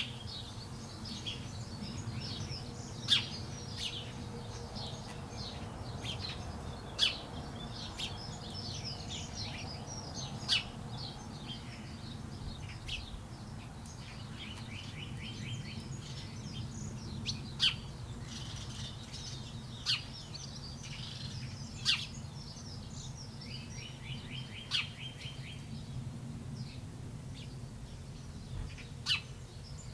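A flock of small birds chirping and calling over one another, with a sharp louder chirp every few seconds and a couple of short rapid trills. A steady low background rumble runs underneath.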